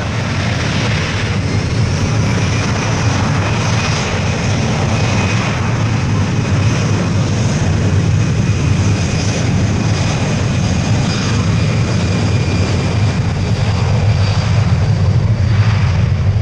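Fixed-wing aircraft engines running loud and steady, a deep continuous drone with a faint high whine. It swells in about the first second, then holds.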